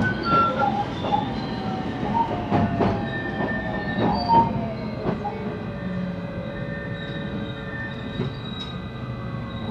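JR West 223 series electric train heard from inside the motor car, its inverter whine falling steadily in pitch as the train slows. Wheels clack over rail joints, with short high wheel squeals.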